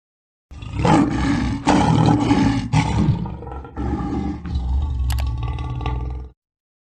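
Large wild animal roaring: a run of loud, deep roars starting about half a second in, with fresh surges about a second apart, cutting off suddenly near the end.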